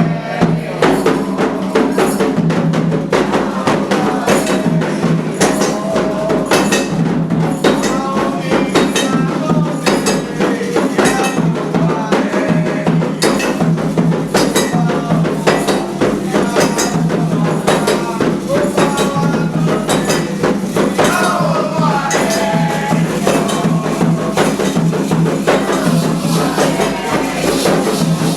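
Candomblé ritual music: fast, steady drumming and rattling hand percussion, with voices singing a chant over it.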